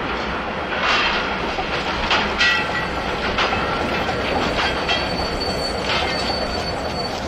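Wooden railroad cars clanking and rattling, with irregular knocks and brief high metal squeals from the wheels, one about two and a half seconds in and a longer one near the end.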